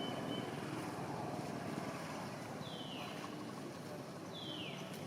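Two short high squeals from a baby monkey, each falling in pitch, about a second and a half apart, over a steady rushing background noise.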